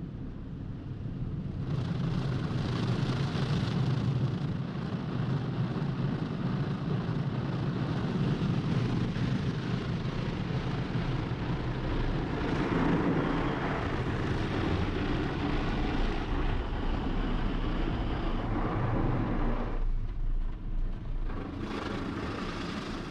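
Automatic car wash equipment running: a steady, loud rushing noise that swells about two seconds in, drops off sharply near the end, then starts again briefly.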